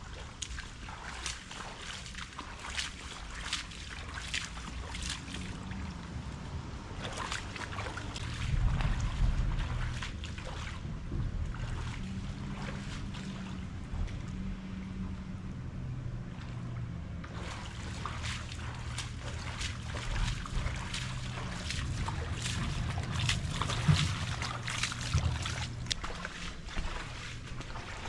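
Water trickling and splashing, with many small crackly drips and splashes over a low rumble of wind on the microphone.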